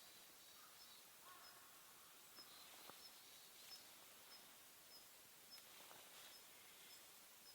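Quiet outdoor ambience: faint, short, high chirps from small wildlife repeat about twice a second over a soft hiss, with a few other faint calls.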